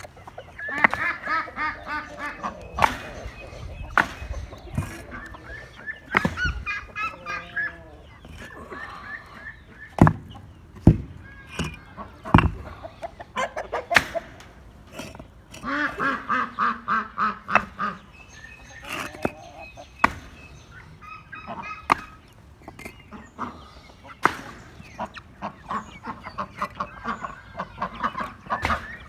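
Backyard ducks and chickens calling: several runs of rapid, repeated quacking honks, the longest about halfway through, with scattered sharp clicks among them.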